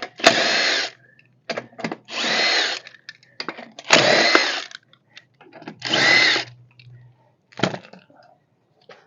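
Impact drill running in four short bursts about two seconds apart, each spinning up quickly and holding for well under a second, with small clicks between them.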